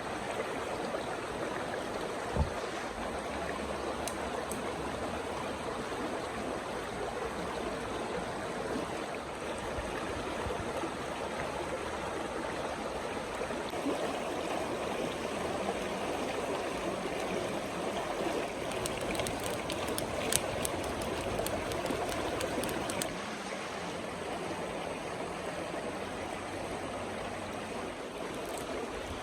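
Steady rushing of a river or stream, with a low knock near the start and a few light clicks about two thirds of the way in.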